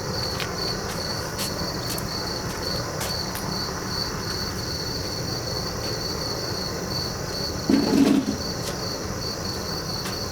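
Crickets chirping in an even, repeating rhythm over a steady low rumble, with a brief louder low sound about eight seconds in.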